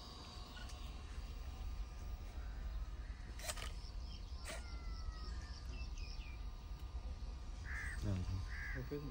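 Birds calling outdoors: three short pitched calls near the end, over a steady low rumble. Two sharp clicks about a second apart come midway.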